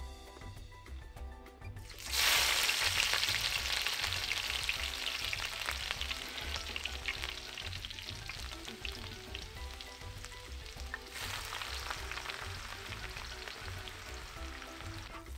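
Hot oil in a wok sizzling loudly as chopped ingredients drop in about two seconds in, the sizzle slowly easing off; about eleven seconds in it surges again as sliced onions go into the oil. Quiet background music runs underneath.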